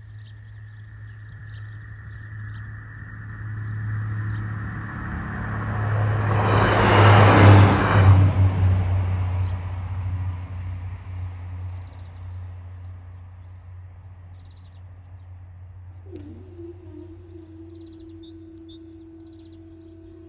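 A train passing over a level crossing: it builds up, is loudest about seven seconds in, then fades away. Birds chirp faintly around it, and a steady hum starts near the end.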